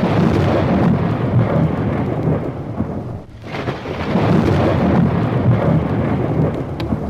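Thunder rolling over falling rain, in two long rumbling rolls, the second starting about three and a half seconds in.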